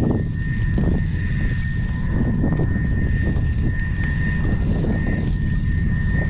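Strong gale-force wind buffeting the microphone: a steady low rumble with uneven gusty thumps, and a thin steady high tone above it.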